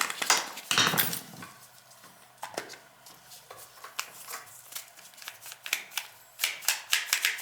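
Small metal parts and tools clicking and clinking as the motor-to-pump coupler is worked out of a Beckett oil burner. There is a cluster of clicks at the start and a quick run of them near the end.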